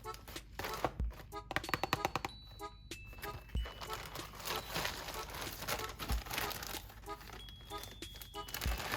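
Calm background piano music over close rustling and crinkling of packaging, with light clicks and taps of items being handled.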